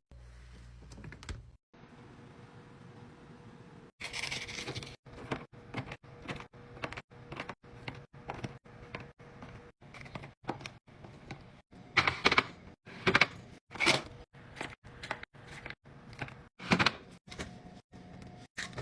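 A rapid string of short handling sounds, clicks, knocks and rustles of food containers and packaging being set down, opened and arranged as a fridge is restocked, chopped up by many abrupt cuts, with a few sharper knocks in the second half.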